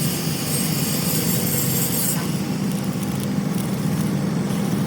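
Steady machine noise with a low hum; a high hiss on top stops about two seconds in.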